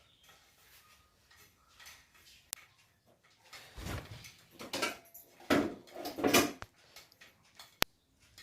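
Objects being handled and set in place: irregular rustling and knocking, with two sharp clicks, one about two and a half seconds in and one near the end.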